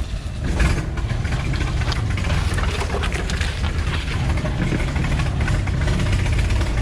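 Vehicle engine running steadily at idle.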